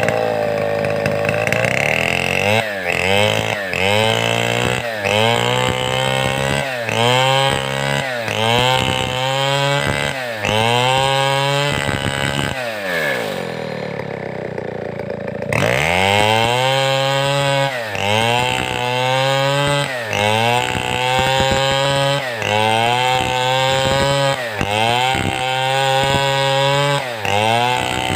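Large 070-class two-stroke chainsaw cutting timber, its engine revving up and dipping about once a second under load. About halfway it drops to a lower idle for a few seconds, then revs back up and carries on.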